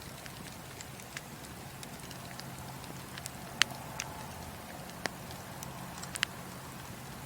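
Wood fire crackling: irregular sharp pops and snaps over a steady soft hiss. The loudest pop comes about halfway through and another near the end.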